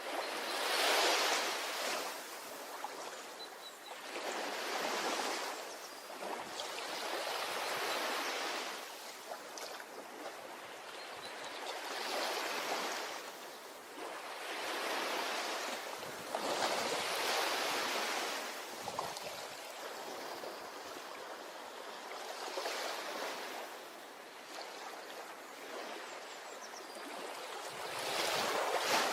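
Ocean waves breaking on a beach and washing back, in swells that rise and fall about every four seconds.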